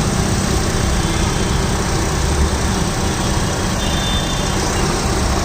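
Honda CR-V engine idling steadily after a rev has died away, the engine noise the owner is demonstrating.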